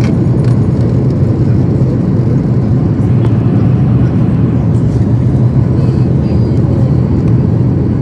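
Steady low rumble of a Boeing 737-800's CFM56 jet engines and airflow heard from inside the cabin.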